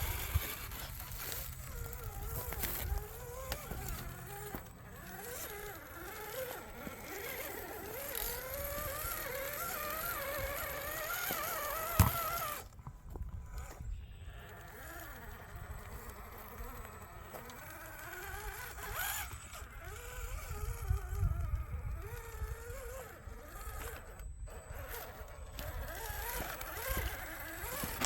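RC rock crawler's electric motor and drivetrain whining as it drives, the pitch wavering up and down with the throttle and climbing for the first twelve seconds. A sharp knock comes about twelve seconds in, and after it the whine is quieter and intermittent.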